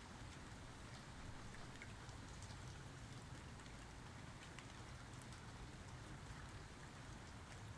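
Light rain falling steadily, with scattered sharp drop ticks.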